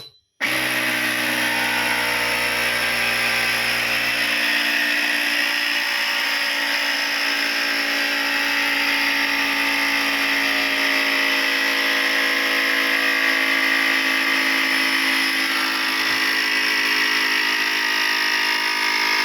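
The built-in air compressor of a Nasan NA-B2+ bubble remover starts abruptly about half a second in and runs steadily, pressurising the bubble-removing chamber.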